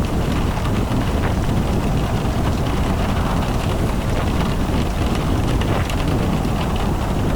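Car driving in rain: a steady low road-and-wind rumble with rain pattering over it.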